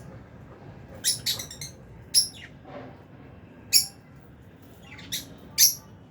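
Lovebirds giving short, sharp, high-pitched chirps in small clusters: a quick run of them about a second in, single calls around two seconds and near four seconds, and a pair near the end.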